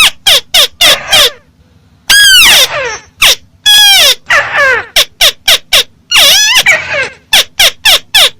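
Amplified call of the bird known in Vietnamese as chim mắt xéo, played very loud. Rapid runs of short, harsh notes, about five a second, alternate with longer arching calls that rise and then fall in pitch.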